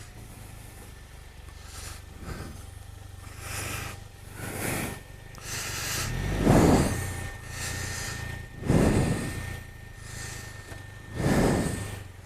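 A person breathing hard, with a loud breath every one to two seconds: out of breath after hard going on foot.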